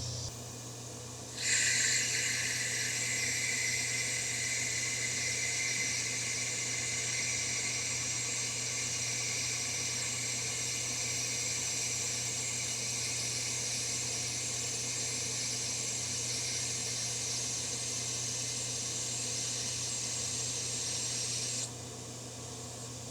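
Metal lathe running with a steady hum while the cutting tool takes a turning pass. A steady high hiss of the cut starts about a second and a half in and stops suddenly shortly before the end.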